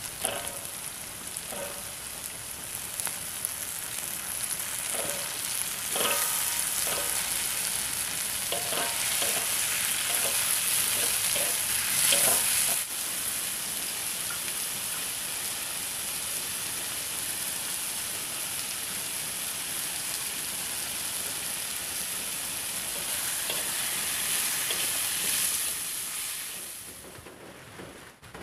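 Stir-fry of pineapple, chillies and salted fish sizzling steadily in hot oil in a wok, with a spatula scraping and knocking against the pan several times in the first half. The sizzle fades away near the end.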